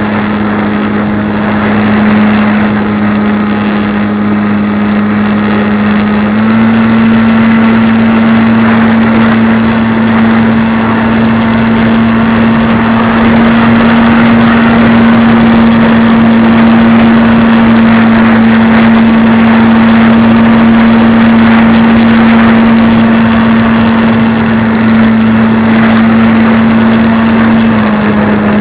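Radio-controlled model airplane's motor running at a steady high speed, heard close up from the airframe. It steps up slightly in pitch about six seconds in and drops back near the end as the throttle changes.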